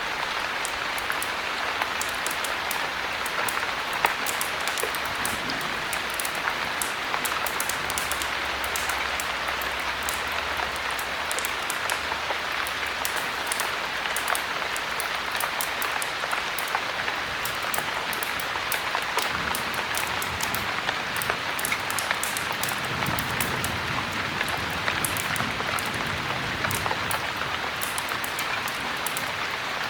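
Heavy rain falling steadily, a dense even hiss scattered with many sharp little ticks of drops.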